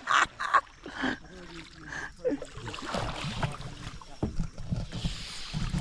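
Water splashing and sloshing around a kayak on a river, as from paddle strokes. A few short spoken sounds come in the first second.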